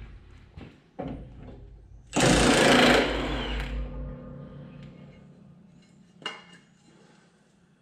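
Impact wrench hammering on a zero-turn mower's blade bolt in a burst of about a second, about two seconds in, breaking it loose. Smaller metal knocks come before and after it.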